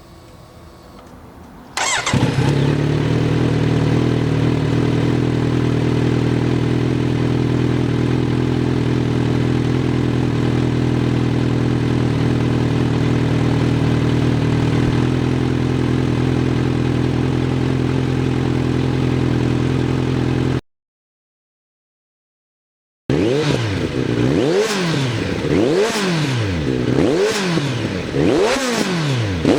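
Kawasaki Z900RS inline-four engine breathing through an ARCHI 427 short-pipe 4-into-1 exhaust. It starts about two seconds in and settles into a steady idle. After a brief silent gap it is blipped over and over, the revs rising and falling about once a second.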